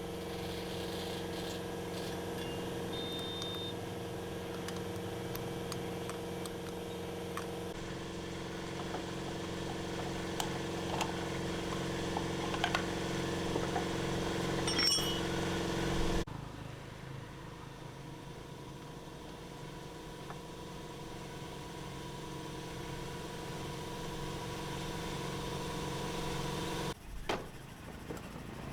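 A motor or engine running with a steady hum and light tool clicks. The hum changes abruptly about halfway through and again near the end.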